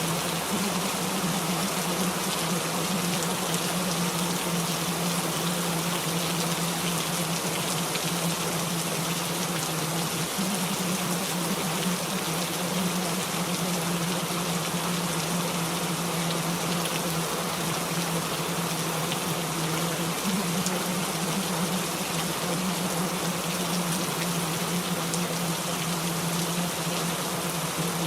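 Recorded rain falling, a steady, even hiss, with a steady low hum running underneath.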